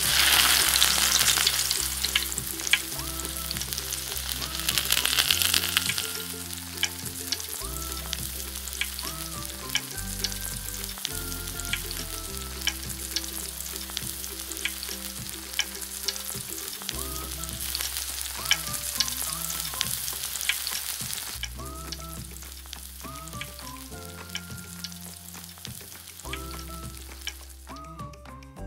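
Potato noodle strips frying in hot oil in a miniature pan: a steady sizzle with scattered pops and crackles, loudest as it starts and again about five seconds in, then stopping about twenty-one seconds in. Light background music plays underneath.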